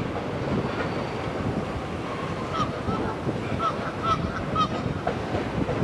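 Freight cars rolling across a steel trestle with a steady rumble, while a goose honks about five times in short calls in the middle.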